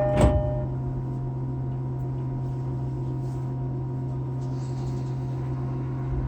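Inside an E231 series 800 commuter train car, the door chime's last notes end as the sliding doors shut with a single thump. A steady low hum from the standing train follows.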